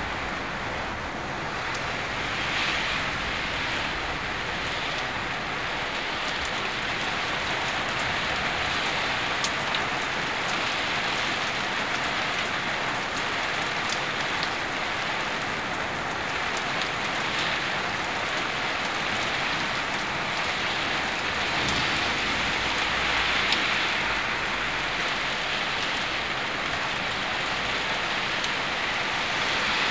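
Rain falling steadily during a thunderstorm, an even hiss with a few sharper ticks of drops.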